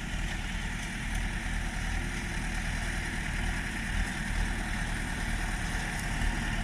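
LTZ-60 tractor engine running steadily as the tractor works a drum mower through a lucerne field.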